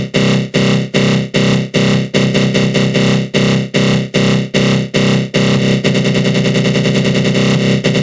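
Synthesized 'attack growl' sound effect: a harsh, buzzy synth tone run through a flanger. It pulses about two to three times a second, then a little after five seconds in changes to a much faster flutter.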